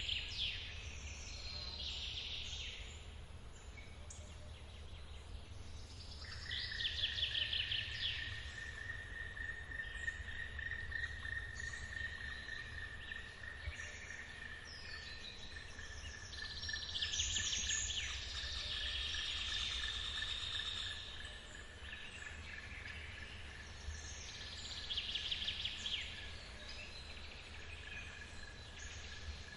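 Forest birds singing in short trilled phrases that recur every few seconds, over the steady low rush of a waterfall. About six seconds in, a steady high-pitched insect drone starts and holds to the end.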